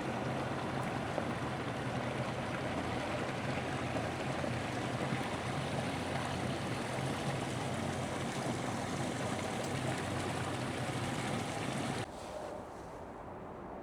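Steady rush of flowing water, cut about twelve seconds in to a quieter steady outdoor background.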